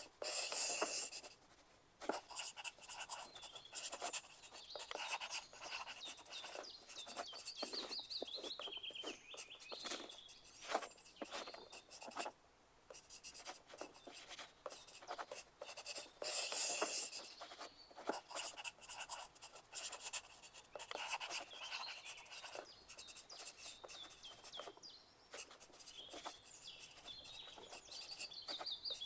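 Pencil writing on paper: a continuous run of irregular scratching strokes, with denser, louder stretches about a second in and again around the middle.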